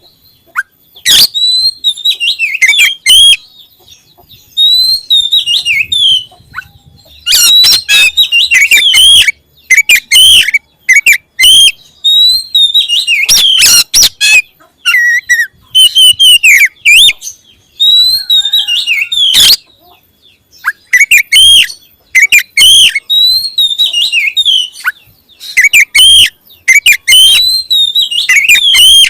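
Oriental magpie-robin singing close to the microphone: loud phrases of rapid, varied whistles and chirps, broken by short pauses.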